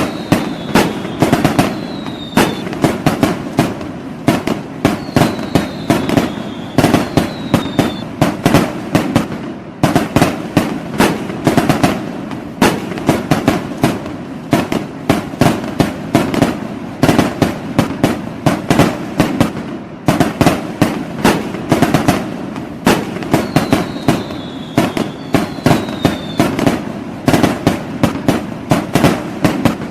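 New Year fireworks going off in a rapid, continuous barrage of sharp bangs and crackles, several a second. A few short high whistles falling in pitch come through over the bangs.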